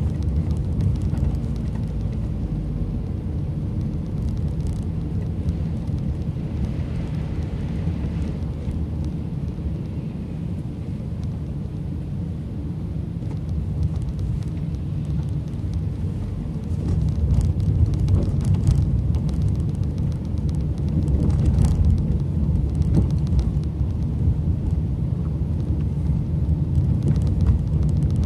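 Car driving, heard from inside the cabin: a steady low rumble of engine and tyre noise, growing a little louder about two-thirds of the way through.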